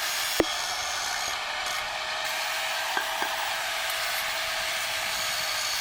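MIG welder tack-welding the exhaust pipe together: a steady sizzling hiss, with one sharp click about half a second in and two light ticks near the middle.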